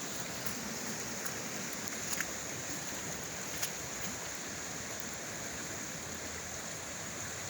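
Creek water running steadily, with a few faint ticks here and there.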